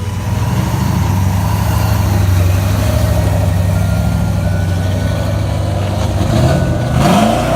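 Modified V10 engine with a race cam idling with a lumpy, uneven pulse. It is revved once near the end, the pitch rising and falling back.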